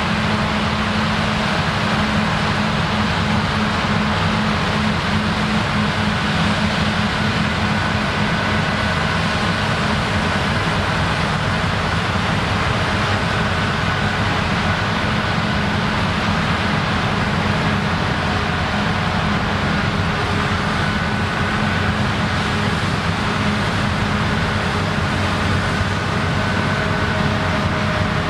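Claas Lexion combine harvester running steadily while harvesting rye: a constant engine and threshing drone with a steady low hum, unchanging throughout.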